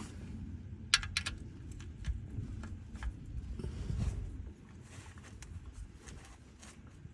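Hand-work handling noises: a few light clicks and clinks, a quick cluster about a second in, over a low rumble that drops away about four and a half seconds in.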